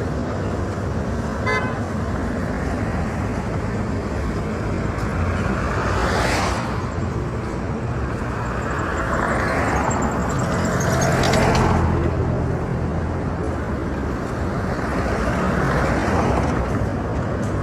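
Road traffic: vehicles drive past one after another, two of them clearly swelling and fading about six and eleven seconds in, over a steady engine rumble, with a car horn tooting.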